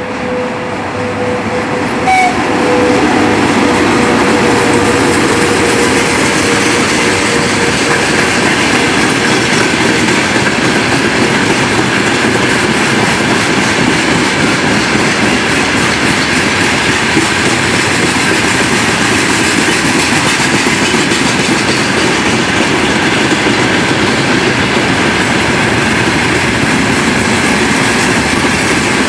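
A long freight train of open gondola wagons rolling past behind a VL80T twin-section AC electric locomotive, with a dense steady rumble and clatter of steel wheels on the rails. The noise gets louder about two seconds in as the train comes alongside, and a faint steady tone fades out over the first ten seconds.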